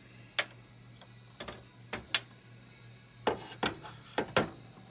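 Irregular sharp clicks and knocks from parts or tools being handled on a workbench, about eight in all, with two close pairs near the end, over a steady low hum.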